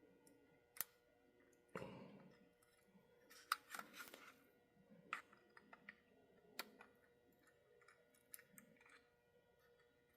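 Near silence broken by scattered faint clicks and taps of small parts and tools being handled on a workbench, with a few brief soft rustles.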